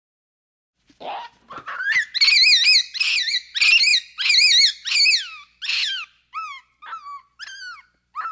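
An animal calling: a rising note, then a run of high wavering, warbling calls, breaking into short falling yelps toward the end.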